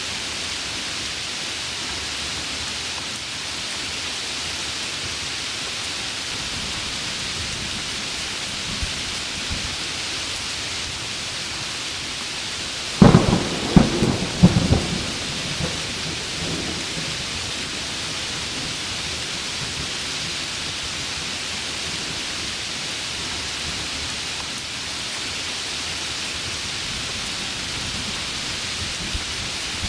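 Heavy rain falling steadily, a dense even hiss. About thirteen seconds in, a close thunderclap breaks with several sharp cracks over about two seconds, then rolls off into a low rumble.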